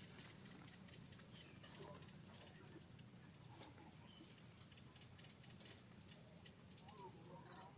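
Near silence: faint background hiss and a steady high whine, with scattered faint ticks and a few faint wavering chirps near the end.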